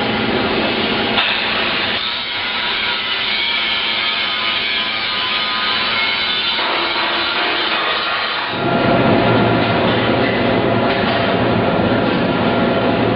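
Metalworking workshop machinery running, with a harsh, high rasp like cutting or grinding. About eight seconds in, a heavier, deeper machine noise takes over.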